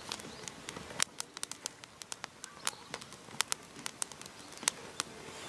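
Irregular sharp clicks and snaps, one to several a second, over a faint steady hiss.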